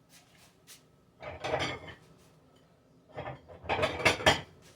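Utensils knocking and scraping against a dish while food is served: a short clatter a little over a second in, then a run of sharper clinks and knocks from about three seconds in.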